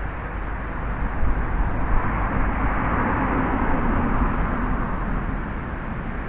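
Thunderstorm wind and rain noise with a low rumble, building to a louder gust-like swell in the middle and easing off toward the end.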